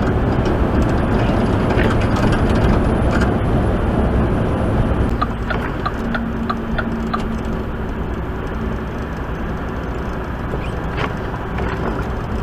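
Steady engine and road noise of a truck heard from inside the cab while driving, with a quick run of light ticks about halfway through.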